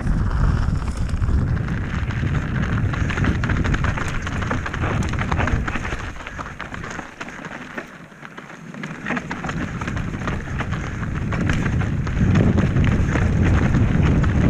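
Wind buffeting the microphone over the crunch and clatter of a Transition Sentinel V2 mountain bike's tyres and frame rolling over a trail. The wind rumble drops away for a couple of seconds about halfway through, leaving the ticking and rattling clearer.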